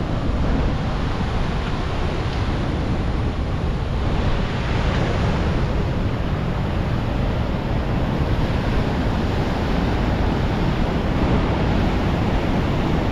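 Steady roar of rushing whitewater from a waterfall and its cascading river.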